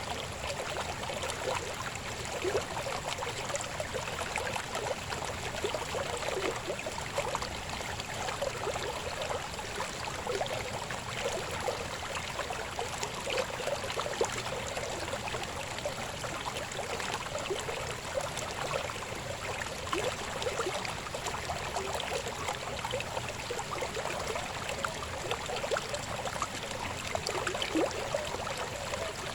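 Shallow river babbling over stones: a steady rush of flowing water with constant small splashes and gurgles.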